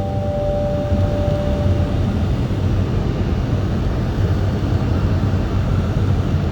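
Steady rumble of a Shinkansen running at speed, heard inside the passenger car. The last held notes of the onboard chime fade out in the first two seconds.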